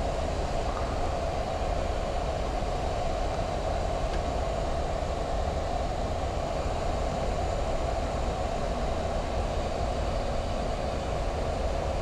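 Steady flight-deck noise of a Boeing 737 MAX 8 in flight on approach: an even rush of airflow and engine noise with a steady hum, unchanging throughout.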